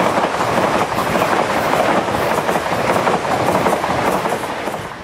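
South Western Railway electric multiple unit passing close by, its wheels clattering over the track and points in a loud, steady rush that dies away near the end.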